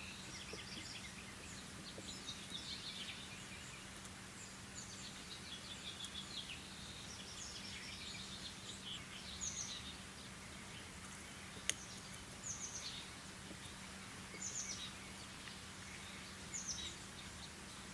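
Small birds chirping in short repeated phrases, faint, over a low steady hum, with one sharp click about two-thirds of the way through.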